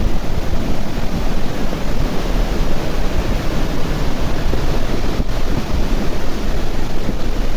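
River in flood rushing, a loud steady noise of churning water, with a momentary break about five seconds in.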